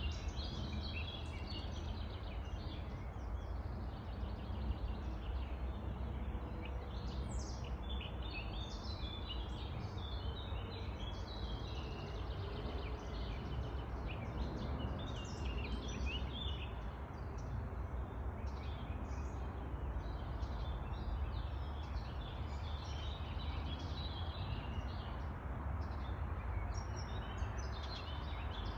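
Several songbirds singing and chirping in a spring forest, many short overlapping phrases throughout, over a steady low rumble.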